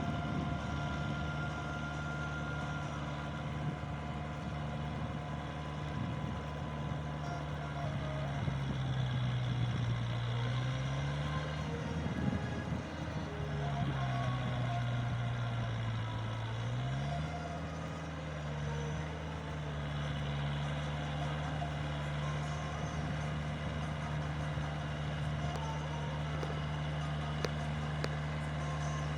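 Kubota 4501 tractor's diesel engine running steadily. Its pitch drops twice in the middle, then settles back to the earlier steady note.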